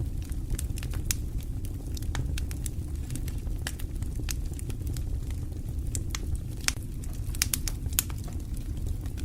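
Fire burning in a fireplace, crackling: irregular sharp pops over a steady low rumble of the flames, with a flurry of louder pops about seven to eight seconds in.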